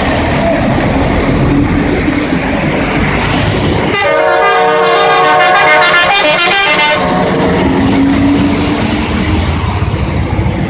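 A vehicle horn sounds one long blast of about three seconds in the middle, over a loud, steady rushing noise.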